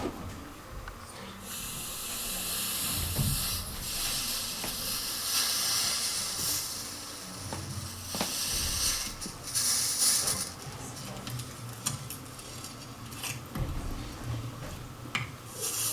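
Drawn-out hissing, a long 'ssss' sound starting about a second and a half in and lasting some seven seconds, then a short hiss near ten seconds and another near the end, of the kind a person makes imitating a snake or steam.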